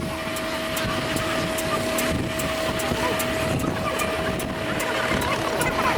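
An engine running steadily, with a steady whine held through most of the sound and faint regular ticks.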